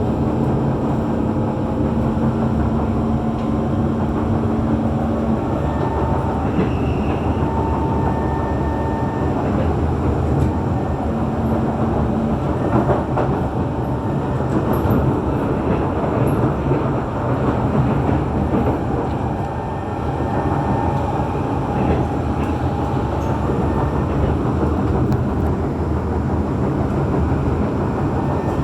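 SMRT C151 metro train running along the track, heard from on board: a steady rumble of wheels on rail, with faint thin tones that come and go over it.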